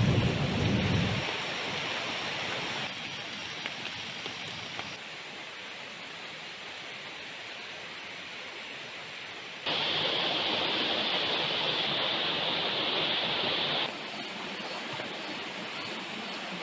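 Heavy rain falling steadily as a hiss. The last of a low rumble fades in the first second. The rain grows louder abruptly a little past the middle and drops back a few seconds later.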